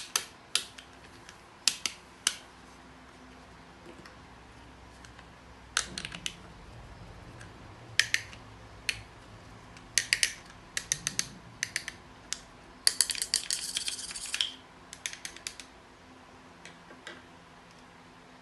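Irregular sharp clicks and clacks of small hard objects being handled, some single and some in quick clusters, with a denser run of clattering about two-thirds of the way through.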